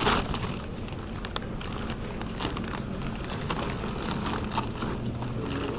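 Rustling and scattered light clicks and taps over a steady background noise, with one louder click right at the start.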